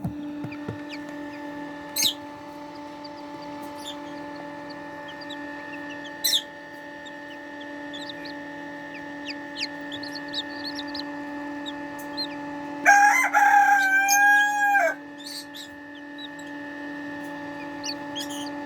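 Baby chicks peeping softly in short high chirps over a steady hum. A couple of sharp taps come early on. About 13 seconds in, a rooster crows once for about two seconds, the loudest sound.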